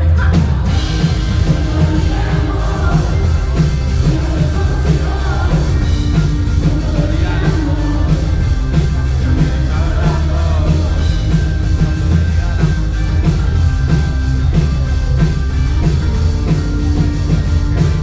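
Live band playing a pop-rock song at full volume, with a steady drum-kit beat, deep bass and some singing over it.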